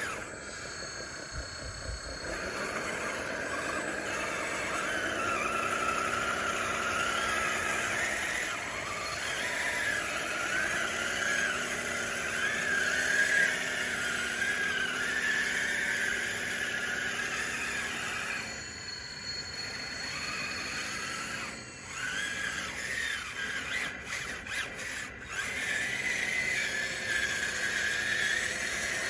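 RC bulldozer's electric drive motors and gearing whining, the pitch rising and falling as the dozer drives and pushes dirt. The sound drops off briefly about two-thirds of the way through, then picks up again.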